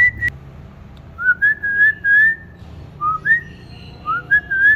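Clear whistling in three short phrases about a second and a half apart. Each phrase is a quick rising note that slides up into a held, steady note.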